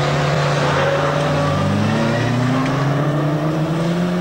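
A small vintage car's four-cylinder engine pulling hard under acceleration, its pitch climbing steadily, over a hiss of tyres on loose dirt.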